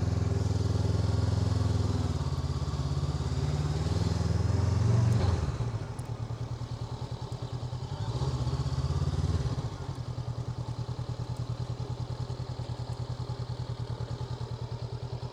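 Honda NX500's parallel-twin engine running at low speed. It eases off about five seconds in, picks up briefly a few seconds later, then settles into a steady low, even beat.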